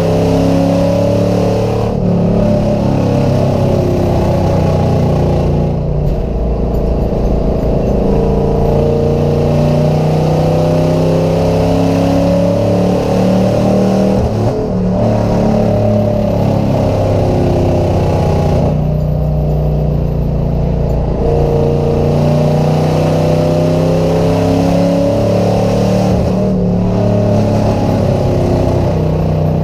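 Car engines running hard in a chain car race on a short oval, their pitch rising and falling over and over as they accelerate and lift through the turns.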